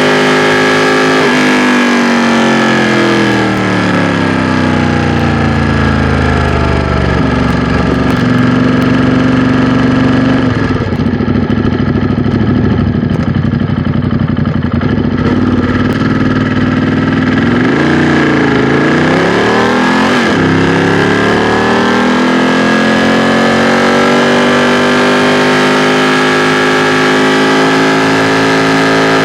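2016 Ducati XDiavel S's 1262 cc V-twin engine and exhaust. The engine note falls as the bike slows, stays low and steady for about ten seconds, then climbs, drops briefly at a gear change, and keeps rising as the bike accelerates.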